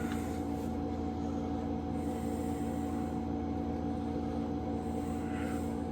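Steady background hum of a running machine, several fixed tones over a low rumble, unchanging throughout.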